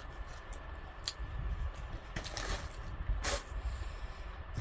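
Close-up eating sounds: chewing fried chicken, with scattered small clicks and two short rustling noises about two and three seconds in.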